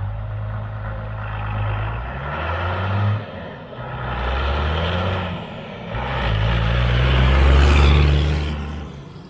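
The 12-valve Cummins inline-six turbodiesel in a Dodge Ram 2500 accelerating through the gears of its manual transmission. Its pitch climbs, drops about 3 seconds in and again about 6 seconds in as it shifts, climbs again, and eases off near the end.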